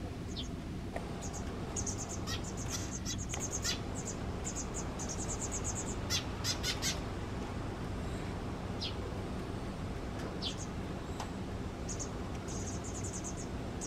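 Small songbirds chirping in quick runs of short, very high-pitched notes, loudest about six seconds in, over a steady low hum.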